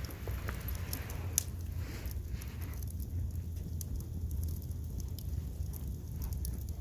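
Wood burning in a fireplace, crackling with scattered sharp pops over a steady low rumble.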